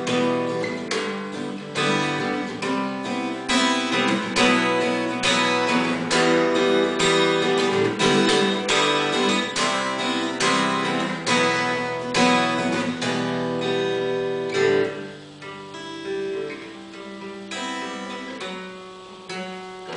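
Acoustic guitar strumming chords in a steady rhythm, dropping to a noticeably softer level about three-quarters of the way through.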